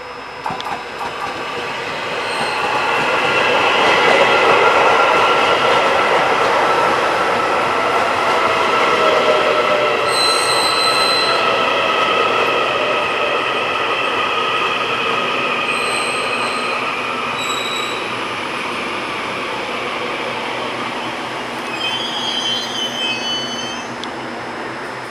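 A train running past on the rails, its wheels squealing: a loud rush that builds over the first few seconds, holds, then slowly eases off, with steady high ringing tones and short piercing squeals coming and going.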